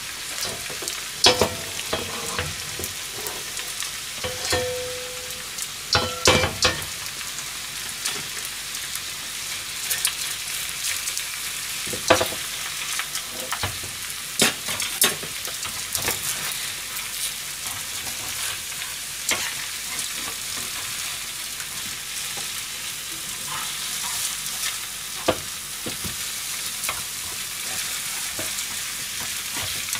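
Hiroshima-style okonomiyaki of cabbage, pork and egg sizzling steadily in a frying pan, with scattered clicks and scrapes of a metal spatula against the pan.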